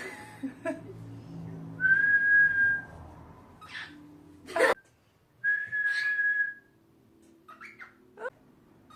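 Cockatiel whistling an imitation of a Japanese bush warbler's song: two long steady whistled notes, each followed by quick chirps and sweeping notes.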